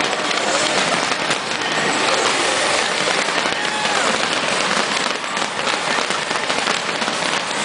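A large fireworks display: a dense, continuous crackle with many small bangs running through it.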